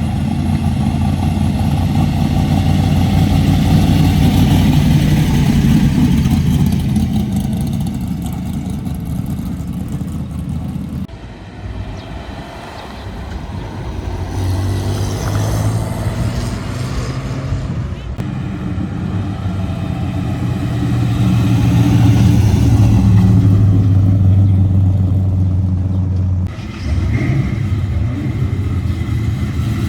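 Muscle car engines running at a loud exhaust rumble, with some revving, in several clips cut together with abrupt changes; voices can be heard in the background.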